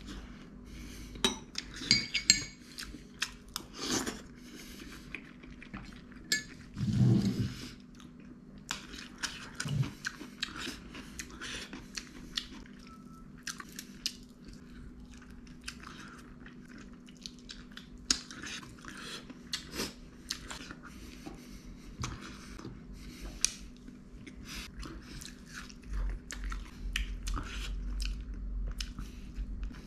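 Close-up chewing and biting on spicy chicken feet, with many short wet mouth clicks and crunches. Dishes clink now and then, loudest about two and seven seconds in.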